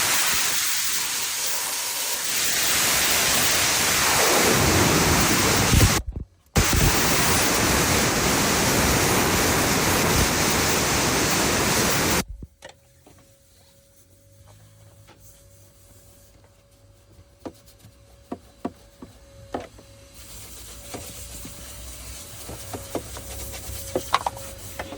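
Loud steady rushing hiss, cutting out briefly about six seconds in and stopping about halfway through. After that, a much quieter stretch with a faint steady hum and scattered light clicks.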